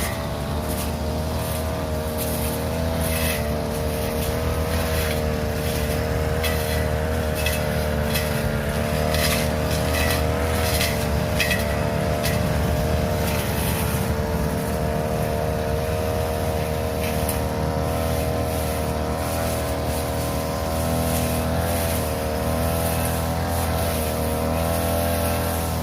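Small engine of a grass-cutting machine running steadily at cutting speed, its pitch wavering slightly under load, with scattered sharp ticks as it cuts through overgrown grass.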